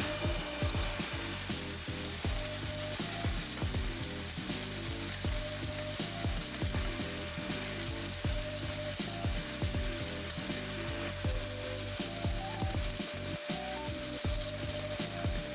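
A KIMO 3.5-gallon cordless wet/dry shop vacuum running at full speed: a steady motor whine with rushing air, and a gritty crackle and rattle of debris being sucked up through the wand.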